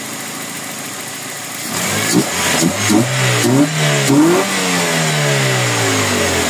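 Toyota Corolla GLI's four-cylinder engine idling, then blipped with about five quick throttle revs starting near two seconds in. After the last blip the revs sink slowly back toward idle, the slow return that is being watched while chasing a high idle.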